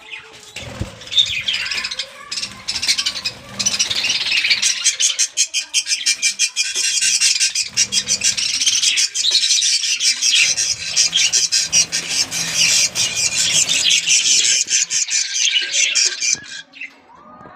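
Budgerigars chattering and squawking: a dense, continuous stream of rapid high-pitched calls that cuts off suddenly near the end.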